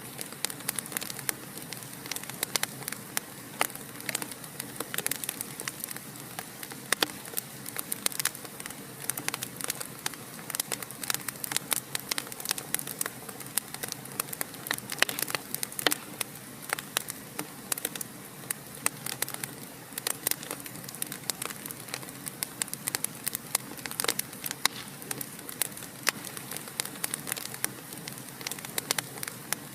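Wood fire in a fireplace crackling: a steady soft hiss with frequent, irregular sharp pops and snaps.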